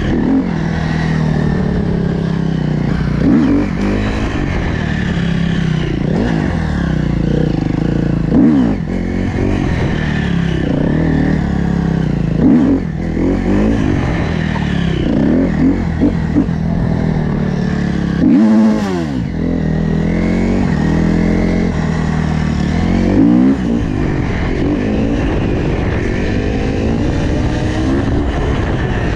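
Dirt bike engine running steadily, revved up and down several times about every four to five seconds, under a steady rush of noise.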